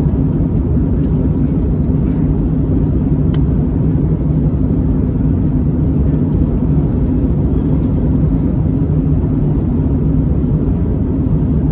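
Steady cabin noise of an Airbus A321neo in flight: an even drone of engines and airflow with a low hum, and one faint click about three seconds in.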